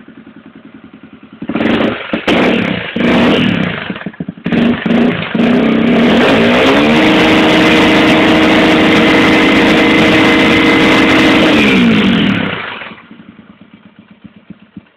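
Honda XR 250 Tornado's single-cylinder four-stroke engine through a WACS aftermarket exhaust: idling with an even pulse, then several sharp throttle blips about a second and a half in, then held at high revs with a steady high pitch for about five seconds, bouncing off the rev limiter, before it drops back to idle.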